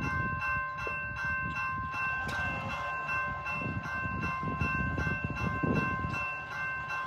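Railroad grade-crossing bell ringing steadily, its repeated strikes running together into held ringing tones, over a low uneven rumble.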